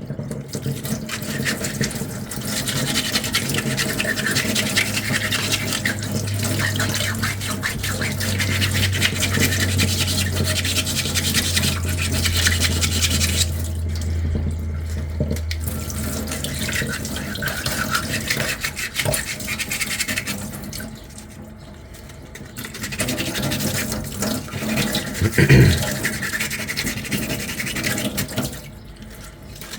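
Sandpaper rubbing quickly back and forth on a small 3D-printed, putty-coated armour piece, in long runs of strokes with a few short pauses. A low steady hum runs under the sanding for several seconds in the first half.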